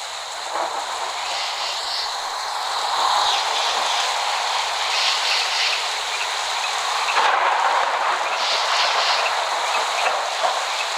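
Rain falling steadily: an even hiss that holds at about the same level throughout.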